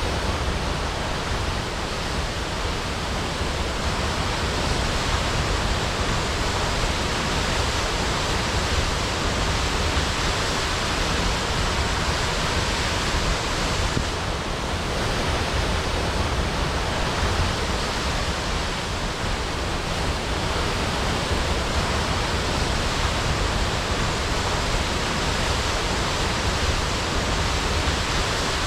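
Waterfall crashing: a dense, steady rush of falling water with no let-up.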